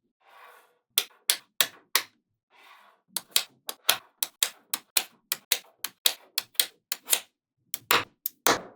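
Small magnetic balls snapping together one after another with sharp clicks, about three a second, as they are assembled into a model. Two soft brushing swishes come before and between the first clicks.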